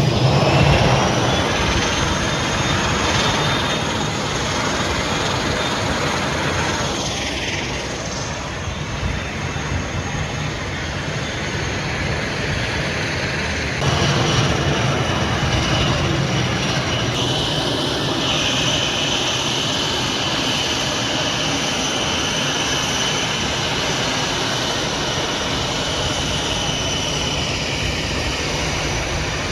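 Jet airliner engines running with a steady high whine over a low rumble. The whine rises in pitch at the start and shifts abruptly about halfway through.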